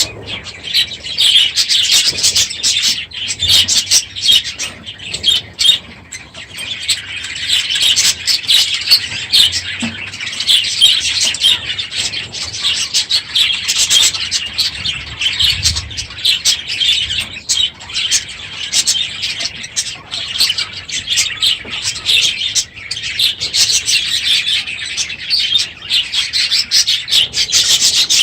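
A crowded aviary flock of budgerigars chattering and chirping all at once, a loud, dense, unbroken chorus.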